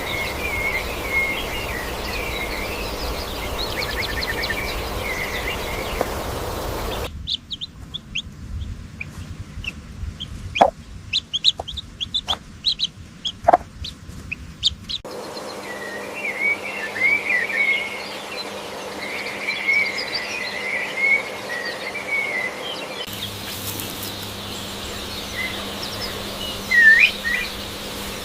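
Chickens clucking and chirping, in a run of short clips that cut abruptly from one to the next about every eight seconds.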